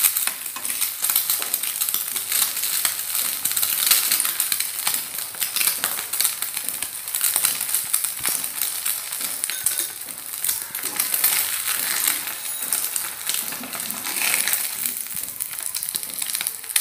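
Egg-coated stuffed pathiri frying in oil on a hot dosa griddle: a steady sizzle full of fast crackles and spits of oil.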